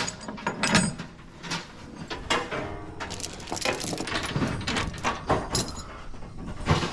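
Chains and load binders being handled on a trailer: irregular metallic clanks, clinks and rattles.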